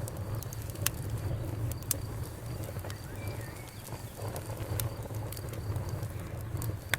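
Wood fire crackling: irregular sharp pops and snaps over a low, steady rumble of the burning fire.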